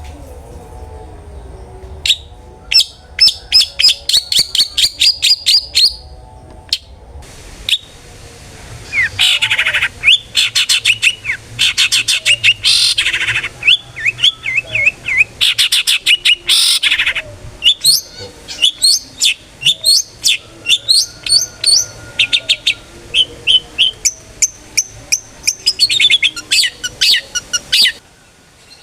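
Long-tailed shrike (cendet) singing in full, open 'ngeplong' song: long bouts of rapid, sharp, repeated chattering notes, with a brief pause about seven seconds in.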